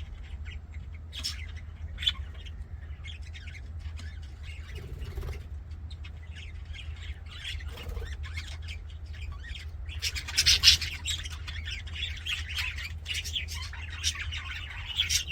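Budgerigars chattering with rapid short chirps and squawks, with a louder flurry of squawks about ten seconds in, over a steady low hum.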